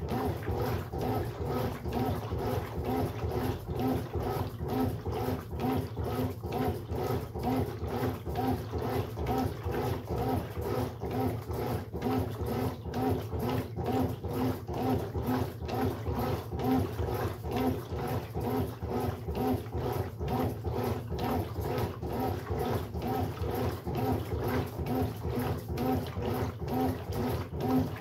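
Brastemp Sexto Sentido 8 kg washing machine agitating a load in water: a steady churning that repeats about twice a second.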